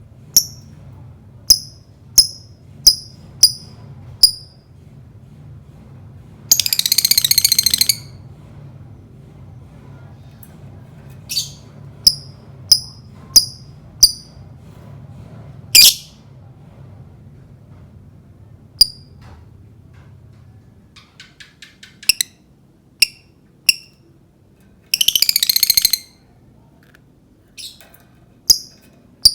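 Lovebird calling: runs of sharp, shrill chirps about one to one and a half a second, broken twice by a harsh rattling chatter that lasts over a second, and once by a quick run of clicks.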